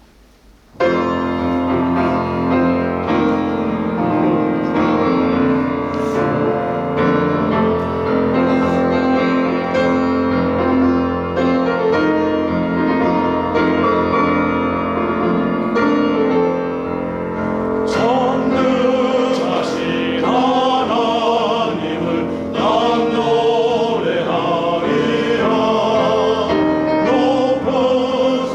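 A church choir anthem: a keyboard introduction of sustained chords begins about a second in, and the choir enters singing about 18 seconds in over the keyboard accompaniment.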